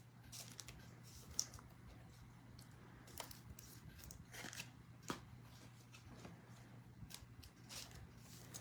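Faint scattered rustles and clicks of trading cards and packaging being handled, over a low steady hum.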